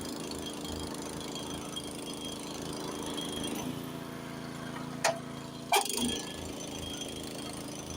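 Honda snowblower engine running steadily under load. Two short, loud clanks about two-thirds of a second apart cut in past the middle.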